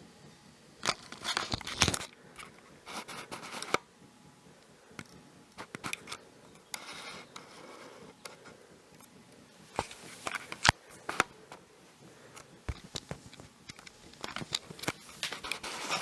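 Scattered clicks, scrapes and rustling of handling and movement in a small room, in short clusters, with a sharp click about eleven seconds in.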